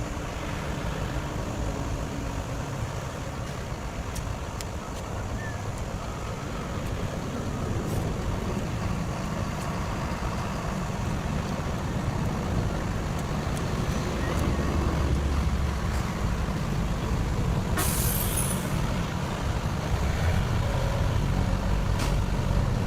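Heavy diesel engines of an excavator and truck running steadily, slowly growing louder. About eighteen seconds in comes one short, loud hiss of released air.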